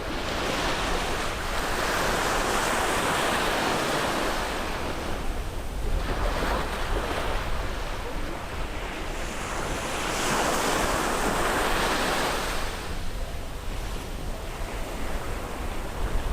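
Ocean waves breaking and washing up on a beach, two broad surges of surf a few seconds long rising and falling over a steady low rumble, with wind buffeting the microphone.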